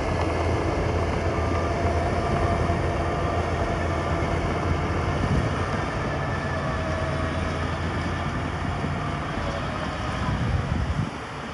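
Heavy diesel earthmoving machinery running steadily with a deep engine rumble, with a truck's reversing beeper sounding at the start. The rumble drops off suddenly near the end.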